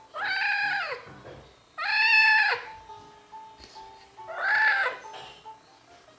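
An angry kitten meows loudly three times, long calls that rise and then fall in pitch, protesting at being cleaned.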